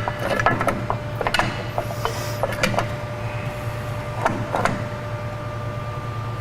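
Light metallic clicks and clinks of drum brake shoes and their hardware being handled and set against the backing plate: a cluster of clicks in the first second or so, a few more later, over a steady low hum.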